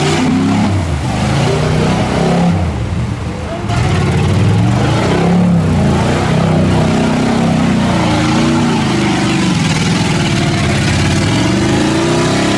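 Chevy 4x4 truck engine revving hard, its pitch rising and falling again and again as it fights through a mud bog, with a loud rushing noise of spinning tyres and churned mud that grows stronger about four seconds in.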